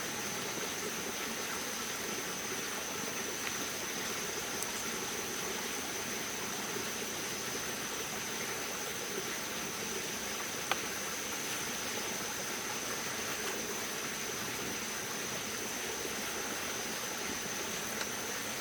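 Steady rush of water, with a thin, steady high-pitched tone above it and a single faint click about ten seconds in.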